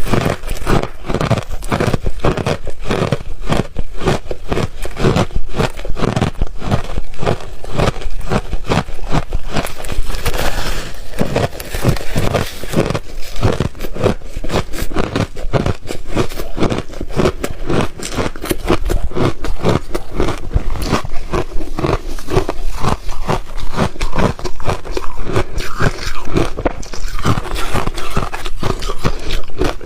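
Refrozen ice being bitten and chewed, crunching and crackling over and over, several crunches a second without a break.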